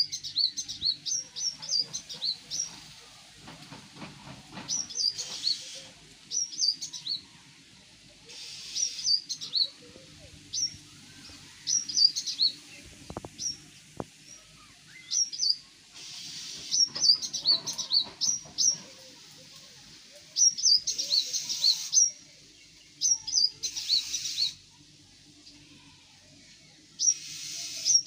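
A small bird chirping in quick runs of short, high notes, repeated every few seconds, with several brief bursts of hiss about a second long.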